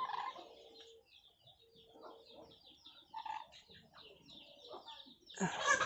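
Pet parrots chattering in a fast run of high, short chirps, with a louder harsh burst near the end.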